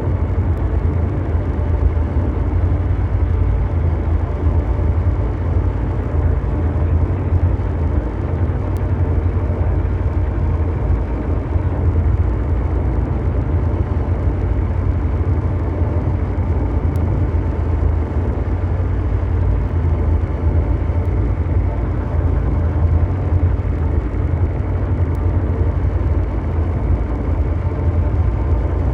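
Continuous ambient mechanical drone noise, like brown noise: a steady deep rumble with a hiss reaching into the mids, unchanging throughout.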